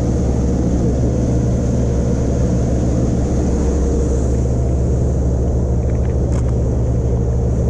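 Motorboat engine running steadily while the boat is under way, with a constant rush of water and wind over it.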